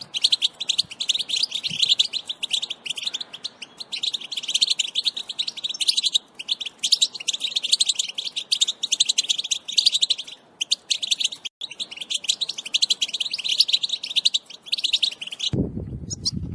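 European goldfinch twittering: a rapid, unbroken chatter of high notes, the call used to stir caged males into song. Near the end the chatter cuts off abruptly and a lower, different sound takes over.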